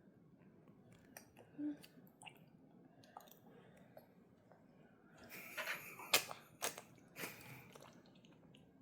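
A small child eating, with faint chewing and mouth sounds, then several sharp smacking clicks in the last few seconds.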